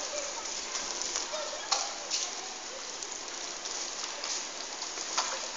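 Steady rain falling, an even hiss with a few sharper drop hits or knocks, and faint voices in the background.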